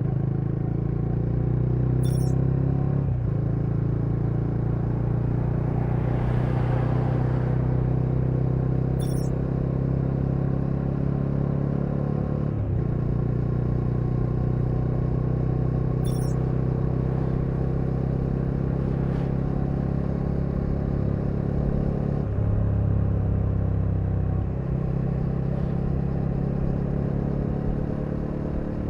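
Bajaj Dominar 400's single-cylinder engine running at a steady speed, with a few brief changes in pitch along the way.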